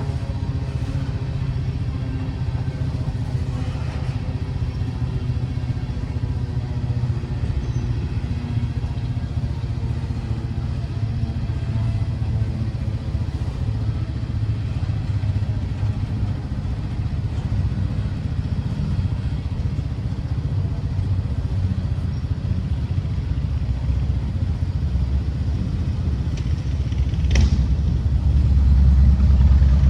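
A steady low vehicle engine rumble. It is broken by a single sharp knock about 27 seconds in, after which the low rumble grows louder.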